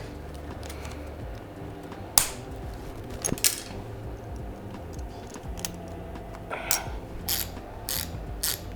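Scattered metallic clicks and clinks of hand tools and engine parts being handled while a timing chain is fitted, over a low steady hum. One sharp click comes about two seconds in, a few more about a second later, then a quicker string of clicks near the end.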